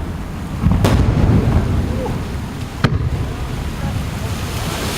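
Aerial firework shells bursting: two sharp booms about two seconds apart, each followed by a low rumble.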